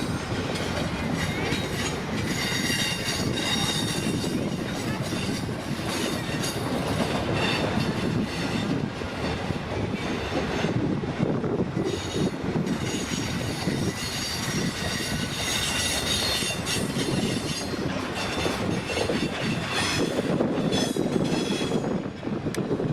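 Intermodal container train's cars rolling past close by: a steady rumble and clatter of wheels on rail, with high wheel squeal coming and going.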